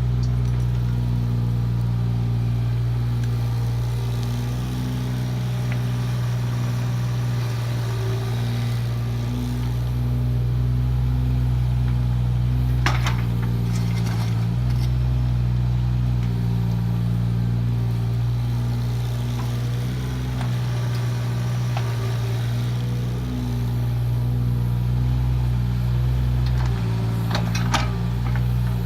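Kubota KX018 mini excavator's three-cylinder diesel engine running steadily as it works, its note shifting a few times, with a few sharp metallic clanks about halfway through and near the end.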